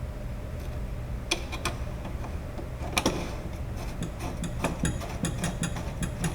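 Light metallic clicks and ticks from small hardware being handled and fitted on the cable eyelet, a few at first, then a quicker irregular run of clicks in the second half, over a steady low hum.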